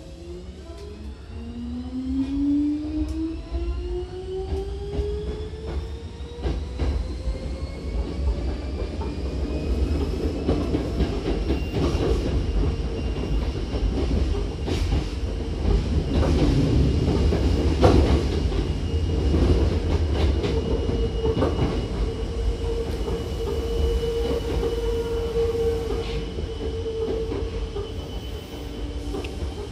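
Hankyu 7000 series electric train heard from inside a car as it pulls away: a rising whine climbs in pitch over the first few seconds as it accelerates. It then settles into steady rolling rumble with scattered rail-joint knocks, and a thin wheel squeal holds through the middle and later part.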